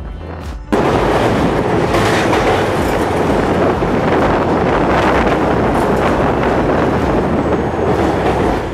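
Background music cuts off under a second in, giving way to loud, steady noise of a passenger train running at speed, heard from an open carriage window: wheels on the rails and air rushing past.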